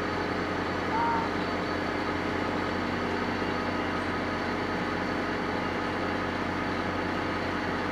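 Steady idling hum of a standing NJ Transit passenger train, its engine and car equipment running with constant tones and no change in pitch. A brief short tone sounds about a second in.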